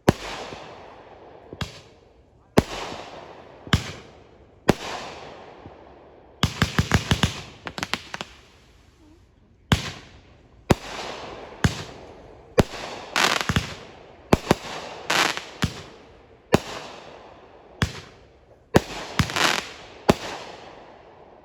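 Fireworks going off: a string of loud bangs about one a second, each fading away after it, with a quick run of rapid crackling pops about six to eight seconds in.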